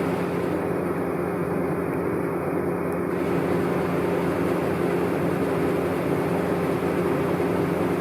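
A fan running with a steady low hum made of a few held tones over a rushing noise.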